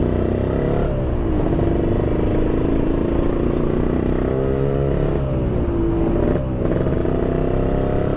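Yamaha RX-King's single-cylinder two-stroke engine breathing through an aftermarket PDK exhaust while riding. Its pitch climbs under throttle and drops sharply three times, about a second in, around five seconds and around six and a half seconds in, each time climbing again.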